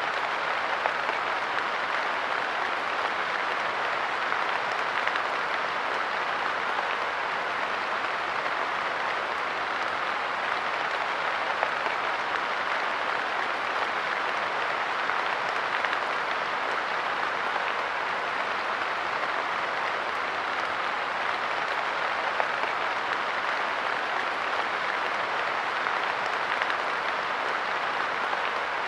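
Steady light rain pattering on a park bench and the ground around it, an even patter with small scattered louder drops.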